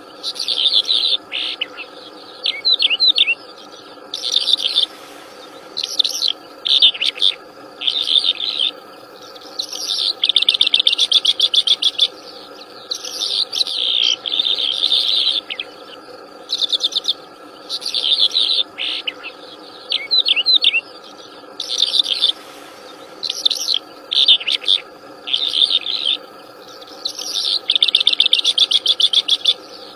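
Wild songbird singing lively, in repeated phrases of fast trills and chirps with short pauses between them, over a steady hum.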